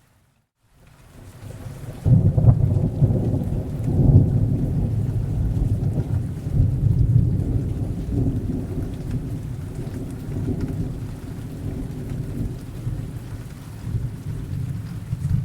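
A long roll of thunder over rain. After a short break in the sound right at the start, the deep rumble builds, is loudest two to four seconds in, and then rolls on, slowly dying away.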